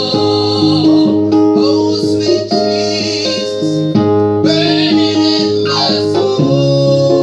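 Worship music: guitar and keyboard playing held chords that change every second or so, with some singing.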